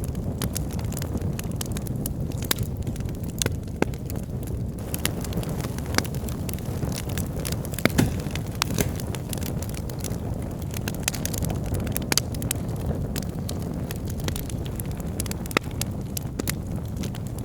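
Logs burning in a wood fireplace: a steady low rush of flame with frequent sharp crackles and pops, a few of them louder, scattered throughout.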